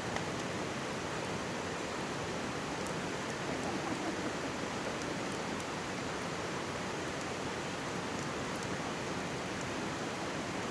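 Mountain stream babbling steadily close by, with faint, scattered small crackles from a wood campfire.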